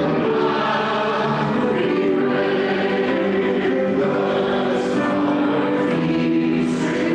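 Church congregation singing a hymn together, many voices holding long notes that change every second or so.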